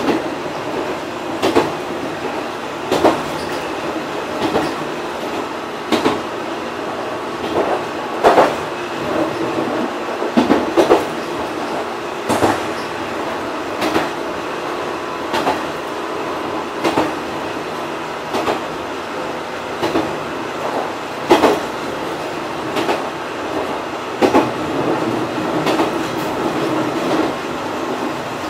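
Fukui Railway 200-series articulated railcar running at a steady speed: a steady running hum, with the wheels clacking over rail joints about every one and a half seconds.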